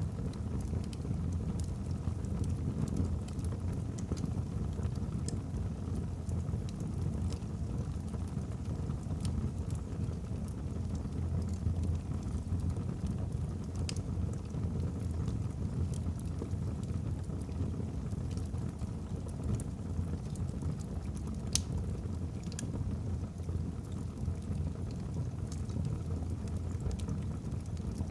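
Wood fire burning in a fireplace: a steady low rumble of flames with scattered sharp crackles of burning logs, the loudest pops a little past two-thirds through.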